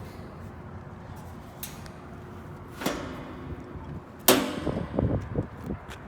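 Knocks and clanks of hand work on metal: a sharp knock about three seconds in, a louder clank with a short ring a little over a second later, then several lighter knocks, over a steady low hum.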